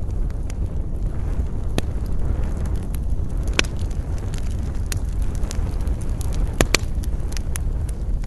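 Campfire crackling, with scattered sharp pops and snaps over a steady low rumble of wind. There is one loud snap a few seconds in and two close together later on.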